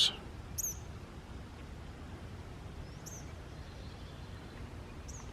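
A small bird giving three short, high, falling chirps a couple of seconds apart, over a steady low outdoor rumble.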